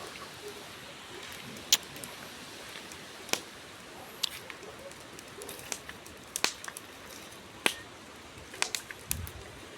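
Campfire burning with a steady hiss and sharp, irregular wood pops, about a dozen, several close together near the end, with a dull low thump near the end. These are mini-explosions, taken to be sap heating and expanding in hollows in the wood until it bursts.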